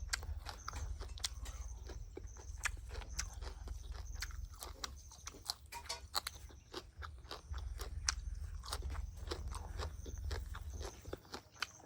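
Close-miked eating: a person chewing and crunching food, with many sharp clicks, over a low hum that drops away near the end.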